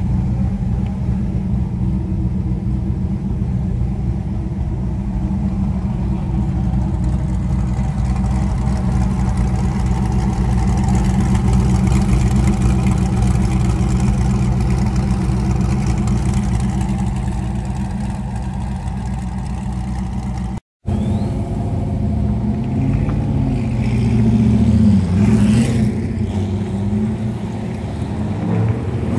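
Ultima GTR race car's engine running at steady revs, then, after a brief gap in the sound about 21 seconds in, revving up and down as it accelerates and changes gear.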